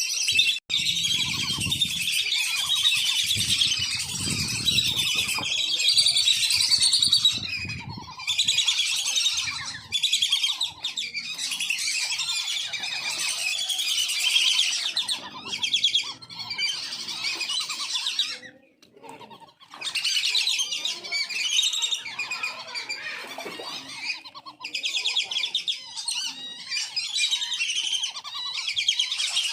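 Wandering whistling ducks (belibis kembang) giving many overlapping high whistling calls in a continuous chatter, with a brief lull a little past the middle.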